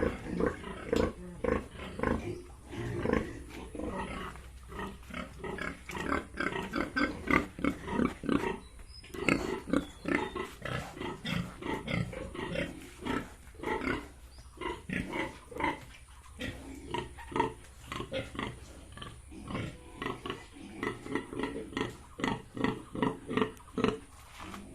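Yorkshire and Hampshire pigs grunting: a steady stream of short grunts, several a second, from more than one animal.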